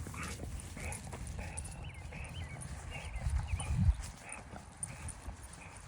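A dog panting close by after running hard, with a louder low rustle about three seconds in.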